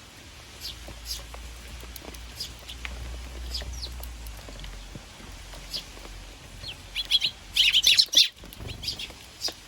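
Eurasian tree sparrows chirping: short chirps scattered throughout, then a dense run of rapid chirps about seven to eight seconds in, the loudest part.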